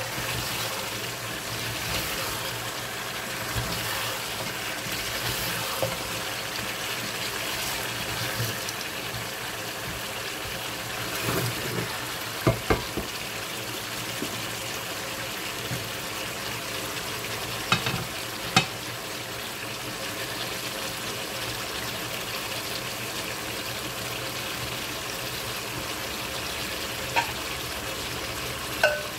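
Mutton pieces for a curry sizzling steadily in a pot as they cook in their own juices, stirred at first with a spoon. A few sharp knocks stand out: a pair about 12 seconds in, another pair about 18 seconds in, and one near the end.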